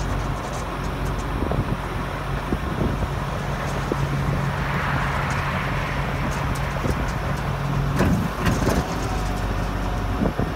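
Tractor engine and edible bean combine machinery running steadily, with a rushing hiss that swells for a couple of seconds midway. A little past eight seconds the steady engine note drops away and a few knocks and clatter follow.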